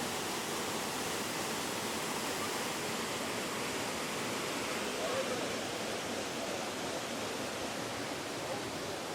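Waterfall and rapids: a steady, unbroken rush of falling and flowing water.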